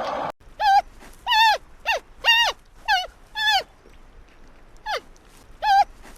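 An animal giving a series of short, high whining calls, about eight of them, each ending in a downward slide, with a pause of about a second midway.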